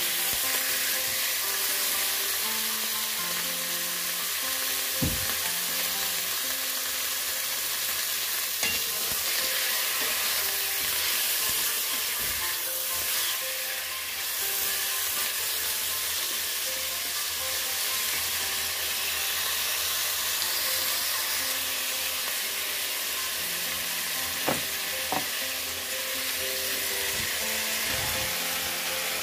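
Chicken pieces and onion sizzling as they fry in an enamelled cast-iron pot, stirred with a wooden spatula that knocks against the pot a few times. Near the end, chunks of potato and red bell pepper tumble into the pot with a soft thump.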